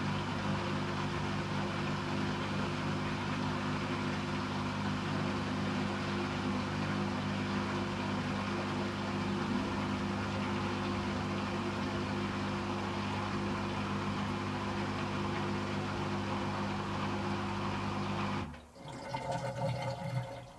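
Hoover H-Wash & Dry 500 washer dryer running its pre-wash, with water rushing and a steady low hum. The sound stops abruptly near the end, followed by a shorter, uneven sound of a different pitch.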